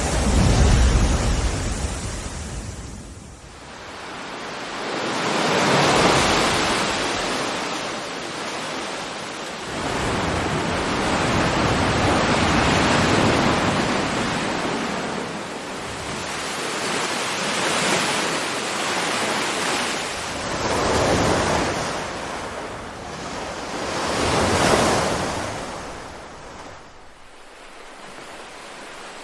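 Ocean waves breaking and washing up the shore, the surf swelling and falling away every few seconds, with a steady rush of wind and spray between the breakers.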